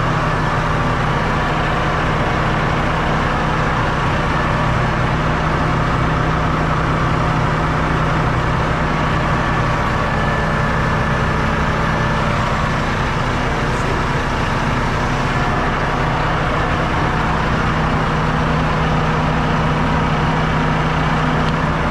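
Combine harvester's diesel engine idling steadily.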